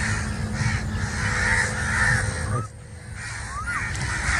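Crows cawing over and over, harsh calls coming about twice a second, over a steady low rumble that cuts off suddenly a little past halfway.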